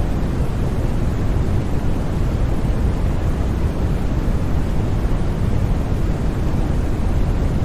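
Steady, unbroken synthetic noise for sleep, sold as white noise but heavy in the bass and softening toward the highs: a deep, even rush with no changes.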